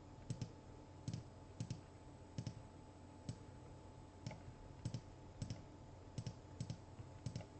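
Faint, irregular clicking of a computer keyboard, about two clicks a second, over a low steady background hum.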